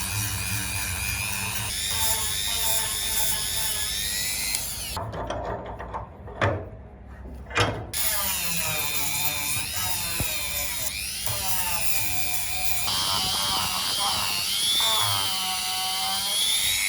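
Electric power tool running, its high whine dipping in pitch and recovering as it is loaded. It stops for a few seconds near the middle, where two sharp knocks sound, then starts again.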